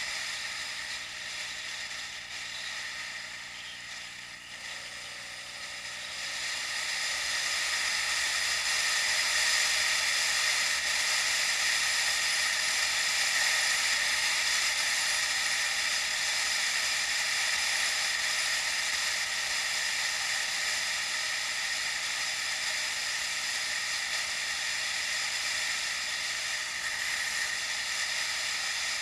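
Steady wind and rolling noise of a bicycle ride, picked up by an action camera. It grows louder about six seconds in and then holds steady.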